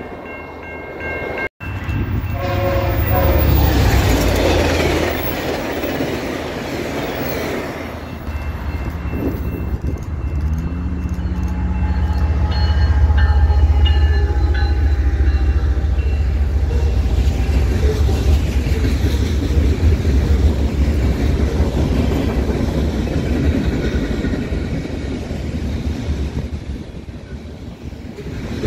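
Diesel-hauled freight train passing close by: a horn chord sounds shortly after the start, the locomotive's heavy engine rumble is loudest a little before halfway, then a long string of covered hopper cars rolls past with wheels clacking over the rail joints.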